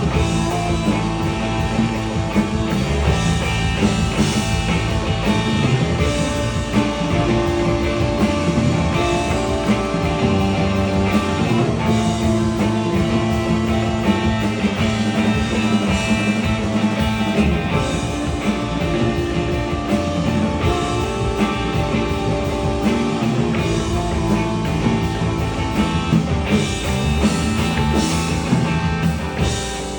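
Rock band playing live without vocals: guitars and a drum kit, dense and steady, easing off just before the end.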